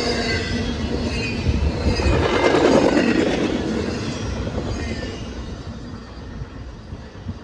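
Train passing close by, its wheels rumbling on the rails, loudest about three seconds in and then fading away.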